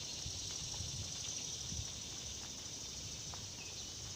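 Steady chorus of insects, an even high-pitched hiss, over a low uneven rumble on the microphone.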